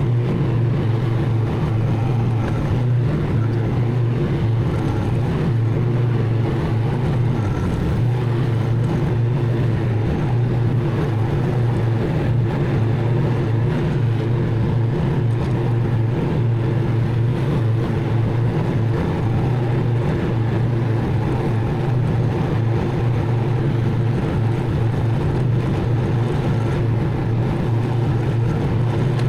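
Mower engine running at a steady speed, an unbroken drone with no change in pitch.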